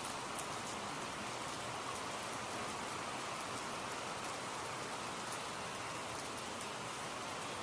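Steady rain falling, a continuous hiss with a few sharper drop ticks.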